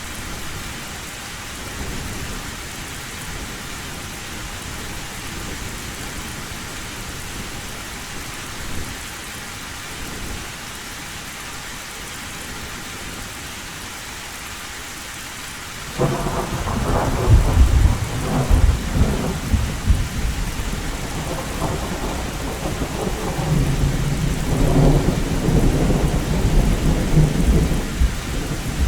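Heavy rain drumming steadily on a tin roof. About sixteen seconds in, thunder breaks in suddenly and rolls on as a long, loud, crackling rumble.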